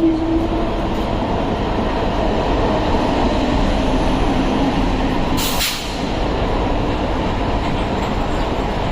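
Electric suburban commuter train (EMU) running along the track, a steady rumble of wheels and traction. A pitched tone fades out just at the start, and a brief hiss comes about five and a half seconds in.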